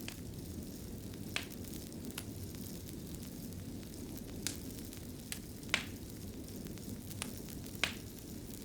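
Fireplace fire crackling: a steady low rumble of flames, with scattered sharp pops, about seven over several seconds. Two louder pops come past the middle and near the end.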